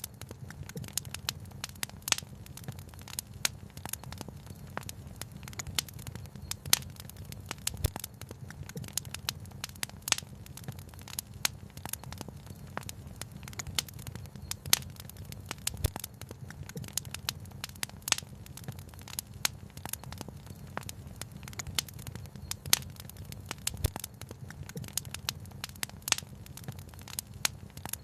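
Wood fire crackling, with frequent irregular sharp pops and snaps over a steady low rumble. A deeper soft thud comes about every eight seconds.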